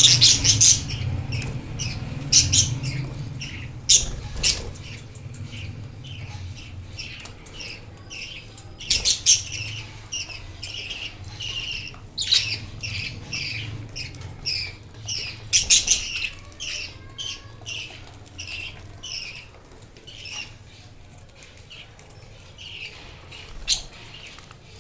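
Budgies chirping: a rapid series of short, high chirps, about two to three a second, with a few louder, sharp bursts scattered through.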